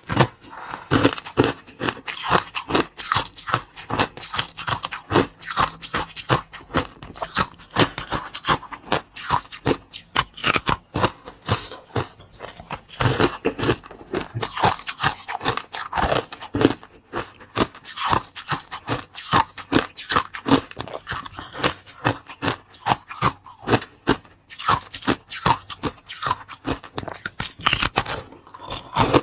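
Small baked cakes being bitten and chewed: a dense run of crisp crunching and scraping clicks.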